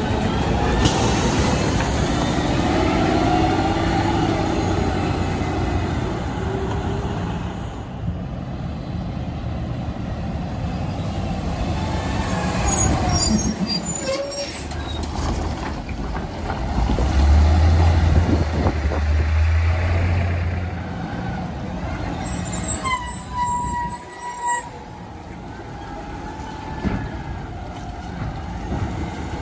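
Diesel garbage truck engines running, with a heavy low rumble that grows louder as a truck comes close about two-thirds of the way through. Near the end a brief steady high-pitched tone sounds for about two seconds.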